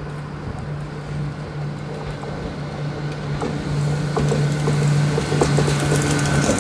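A train approaching on the line: a steady low hum from the locomotive grows louder, with scattered clicks from the wheels on the track joining in over the second half.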